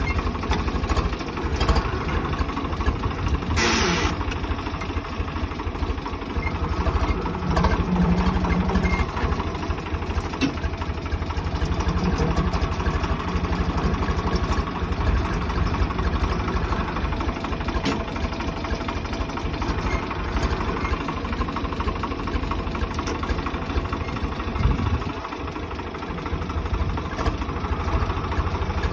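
Swaraj 855 tractor's three-cylinder diesel engine running with a steady low throb. A short burst of hissing noise comes about four seconds in.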